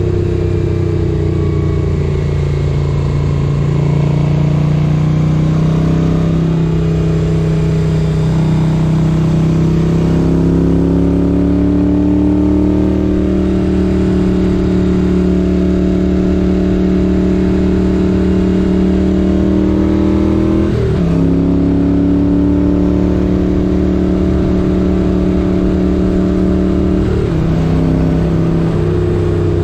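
Motorcycle riding under way with its 1978 Moto Guzzi 850 Le Mans air-cooled V-twin engine running. The engine note falls a little, then climbs steadily and holds. It breaks off briefly twice, about two-thirds through and near the end, and after the second break it settles lower.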